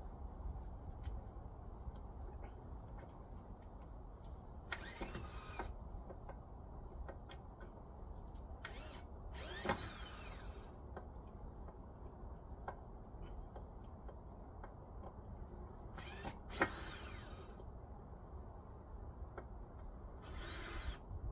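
Power drill driving screws in four short runs of about a second each.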